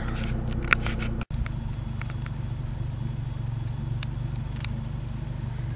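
A 1998 Ford Escort's four-cylinder engine idling steadily through a straight-piped exhaust with the muffler cut off. The sound briefly drops out about a second in.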